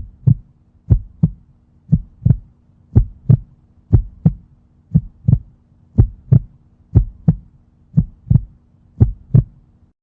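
Heartbeat sound effect: a steady lub-dub of paired low thumps, about one pair a second, over a faint steady hum.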